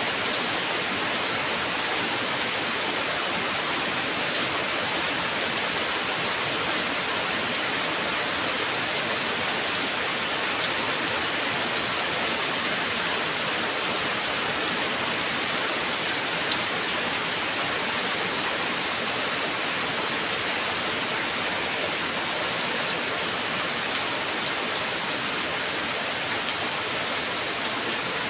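Heavy rain falling steadily, an even hiss of many drops that keeps up without let-up.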